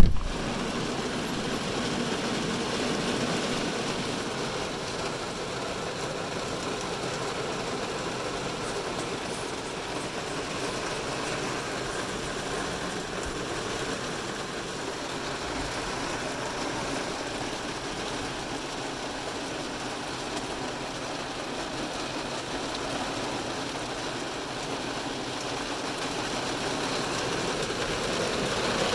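Heavy rain falling on a car's roof and windows, heard from inside the car: a steady, dense hiss that does not let up. A single sharp knock sounds right at the start.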